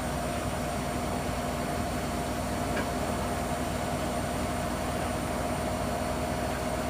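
Hoover Nextra HNWL7146 washer dryer running steadily: a constant hum with a steady whine on top and an even rushing noise, with no change in speed.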